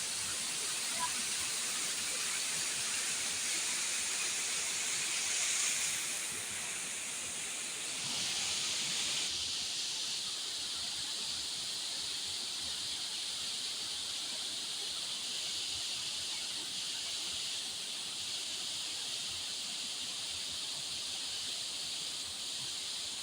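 Steady hiss of rushing water, with most of its sound in the upper range and a slight shift in tone about six to nine seconds in.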